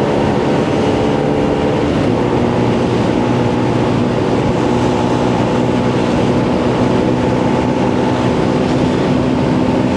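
Benelli BN 125's single-cylinder four-stroke engine running steadily while riding, with wind noise rushing over the microphone. The engine note shifts slightly about two seconds in.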